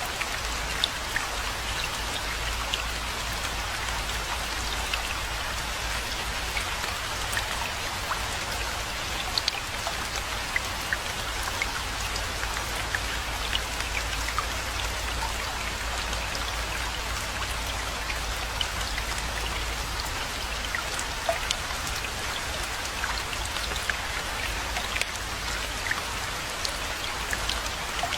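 Steady rainfall: an even hiss with many scattered, distinct drops ticking close by.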